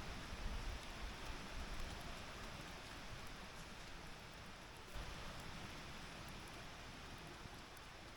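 Wood campfire burning in a fire pit: a steady faint hiss with a few scattered small crackles.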